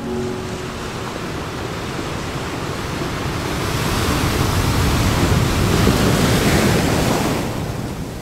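Ocean surf washing onto a sandy beach: the sound of the waves swells from about three seconds in, peaks, and eases off near the end.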